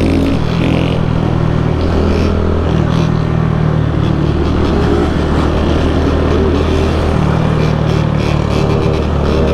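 Motorcycle engine running under way, a steady loud drone whose pitch steps up or down a few times as the throttle and gears change.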